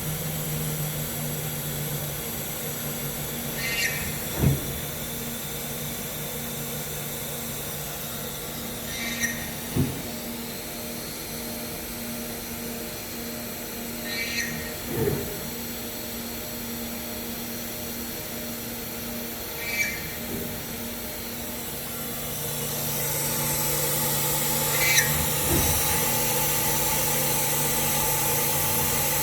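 CNC router running with a steady hum. About every five seconds there is a short squeak, followed half a second later by a low thud, in an even repeating cycle. The hum grows louder about 23 seconds in.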